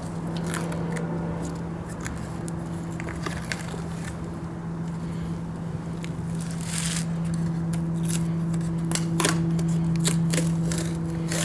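Scattered clicks, scrapes and crinkling rustles of small engine parts being handled, over a steady low electrical hum.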